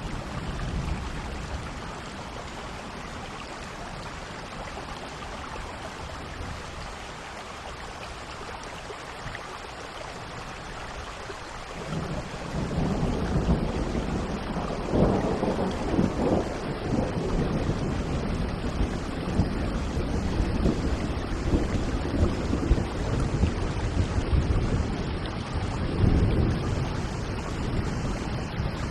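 Steady rain falling, with thunder: a low rolling rumble sets in about twelve seconds in and swells several times, loudest twice.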